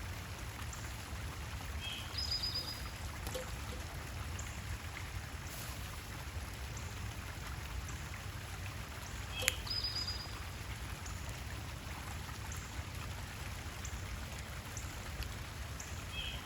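Steady trickling water with a low rumble beneath. Over it, a songbird gives a short high two-part call about two seconds in and again about nine and a half seconds in, just after a sharp click, with faint short chirps scattered between.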